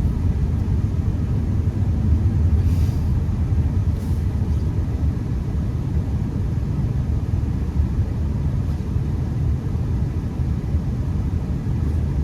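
Honda Accord driving on a snow-covered road, heard from inside the cabin: a steady low rumble of engine and tyres.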